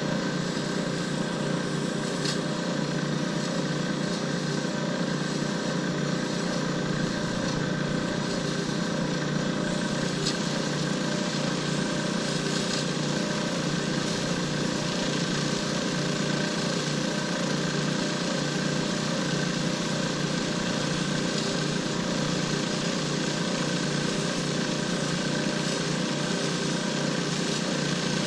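Lathe running steadily while a cast blank is turned down to shape for a shift knob.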